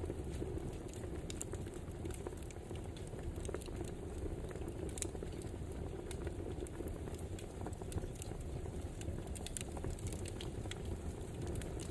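Wood fire burning, with a steady low rumble of flames and frequent small, irregular crackles and pops of burning firewood.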